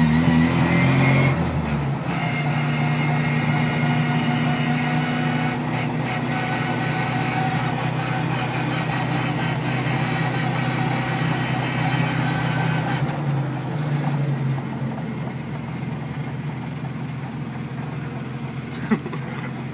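Classic Mini's A-series engine and straight-cut drop gears heard from inside the cabin while driving: the engine runs under way with a high gear whine, its note dropping about a second in, then holding steady. It gets quieter over the last few seconds, with one short knock near the end.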